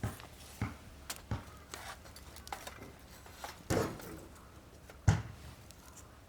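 Wood fire burning in a metal fire pit, with scattered sharp knocks and pops, about half a dozen, the loudest near the end.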